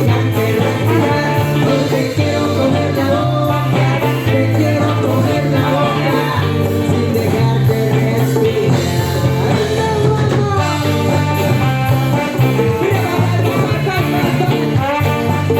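Live band playing an upbeat Latin song, a stepping bass line and a steady beat under a melodic lead whose notes bend and slide.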